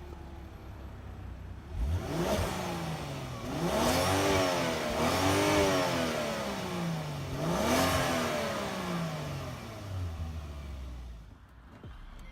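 Volvo S60 T6's turbocharged six-cylinder engine revved in neutral: idling, then three rev blips about 2 to 3 seconds apart, each rising in pitch and falling back, settling to idle near the end.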